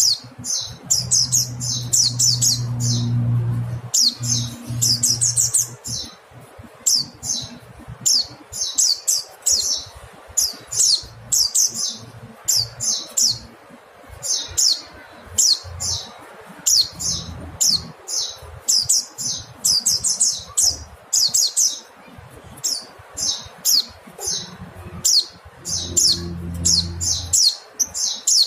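Mountain white-eye (Zosterops montanus) calling: rapid runs of thin, high chirps repeated in short bursts over and over. A low hum sits underneath at times.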